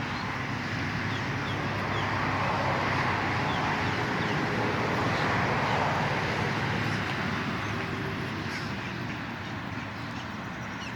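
Outdoor ambience: a steady rushing noise that swells over the first few seconds and fades toward the end, under a low hum, with birds calling.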